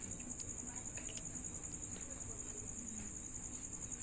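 Insect, likely a cricket, trilling: one steady high tone pulsing rapidly and evenly without a break.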